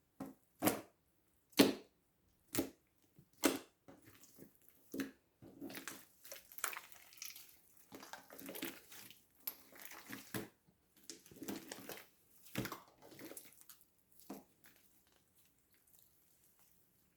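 Slime being squeezed and pulled by hand: sharp sticky pops about once a second at first, then irregular wet squelching, dying away near the end.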